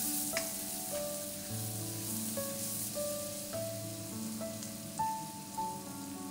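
Onions and ginger-garlic paste sizzling in hot oil in a karahi, a steady hiss, under background music: a slow melody of single notes.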